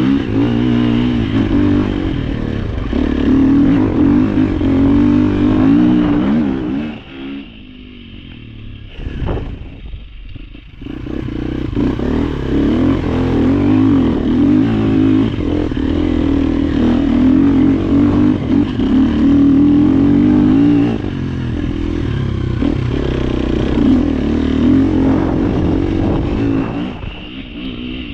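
Off-road trail motorcycle engine running hard under varying throttle, its pitch rising and falling. The engine drops off about seven seconds in and picks back up around eleven seconds, then eases off again near the end.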